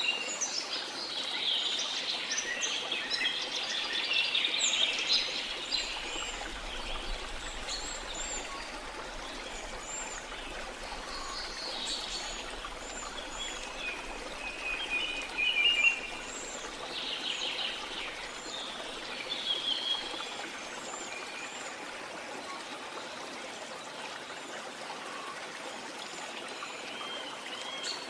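Several birds calling and singing in short chirps and trills over a steady hiss of flowing water, a stream or waterfall.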